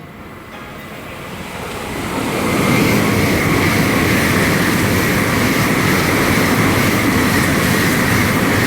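Tokaido Shinkansen N700-series bullet train passing at speed: a rush of wheel and air noise that builds over the first few seconds, then holds loud and steady.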